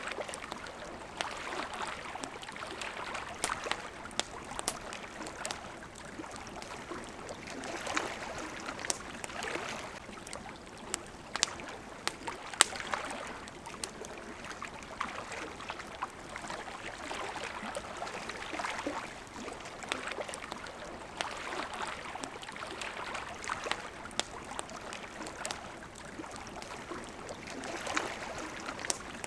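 Wood campfire crackling, with frequent sharp pops and snaps, over water lapping in soft surges every few seconds.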